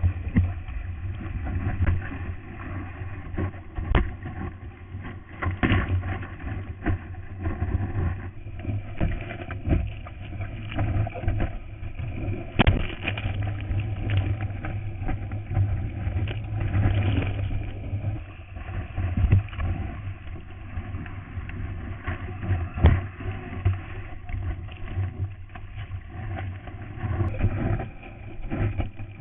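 Surfing POV camera's own sound: a steady rumble of wind and rushing water against the camera's waterproof housing, broken by frequent knocks and splashes.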